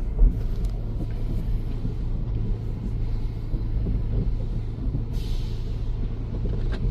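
Automatic car wash machinery heard from inside the car: a steady low rumble and hum, with a brief hiss about five seconds in.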